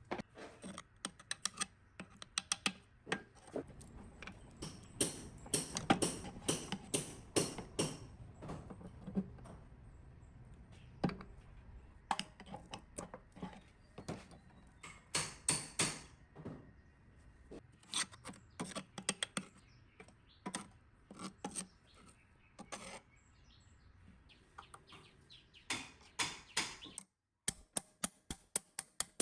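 Hand tools working on metal machine parts: irregular taps, clinks and knocks. After a short break near the end comes a quick, even run of taps, about five a second.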